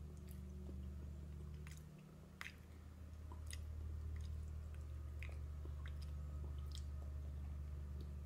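Toddler chewing pasta: faint, wet mouth clicks and smacks about once a second, over a steady low hum.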